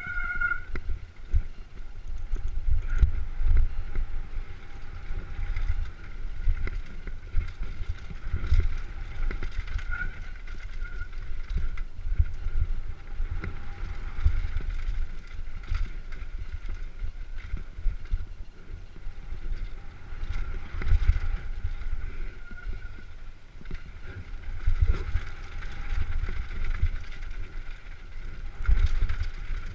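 Downhill mountain bike descending a rough trail, heard from an onboard camera: continuous wind rumble on the microphone with many short knocks and rattles from the bike over the ground.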